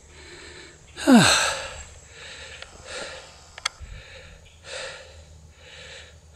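A man breathing heavily and rhythmically, out of breath from cycling, with a louder voiced sigh about a second in and a brief click in the middle.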